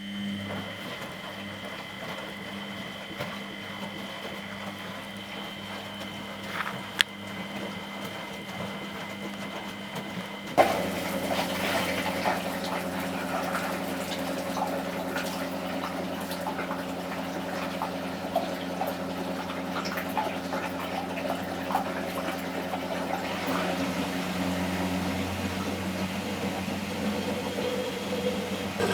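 Miele Professional WS 5426 washing machine taking in water through its solenoid inlet valve: water rushes into the drum over a steady electrical hum. About ten seconds in the inflow suddenly gets louder and then runs on steadily.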